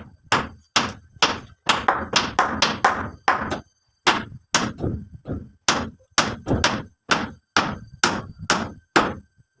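Hammering: a run of sharp strikes, about two a second, that stops near the end.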